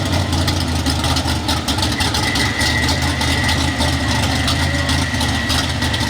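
Small-block V8 engine of a super stock 4x4 pulling truck running at a steady pitch.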